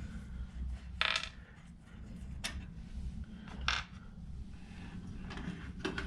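Light metallic clinks and taps from a light fixture and its hardware being handled, with three sharper clicks about a second apart and a few fainter ones.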